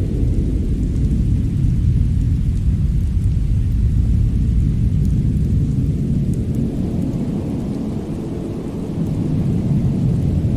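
Deep, steady rumbling noise that swells and eases a little, with a few faint scattered crackles, from a winter snowstorm-and-fireplace ambience track.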